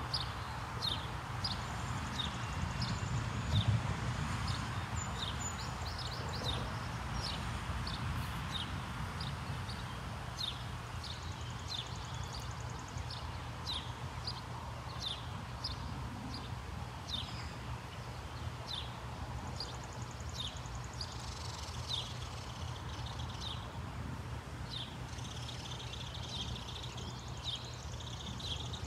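A bird calling with short, sharp chirps, about two a second, over a steady low rumble.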